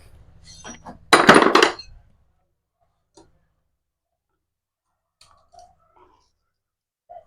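Metal tools and engine parts clinking and clattering on a workbench, with one loud clatter lasting under a second about a second in, then a few faint scattered clicks.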